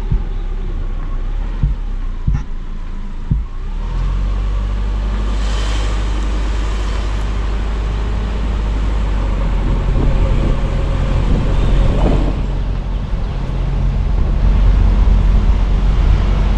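A car driving, heard from inside: a steady low engine and road drone, with a few short knocks from bumps or rattles in the first few seconds.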